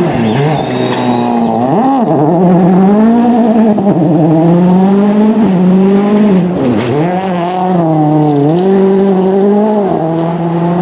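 World Rally Car's turbocharged four-cylinder engine running hard at high revs, held at a steady pitch. The pitch dips sharply and climbs back about two seconds in and again near seven seconds.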